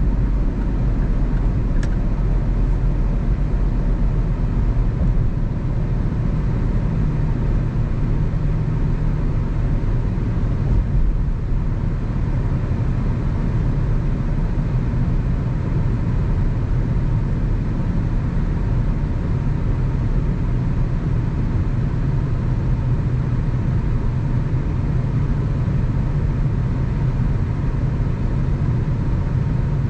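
A car driving at highway speed: steady tyre and road noise with a low engine drone. There is a faint tick about two seconds in.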